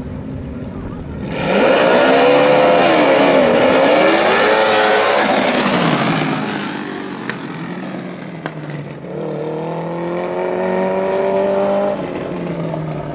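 Racing lawn mower engine revving hard on a drag run, loud for several seconds with its pitch climbing and dipping. A second engine revs up about nine seconds in, rising steadily in pitch, and drops off sharply about three seconds later.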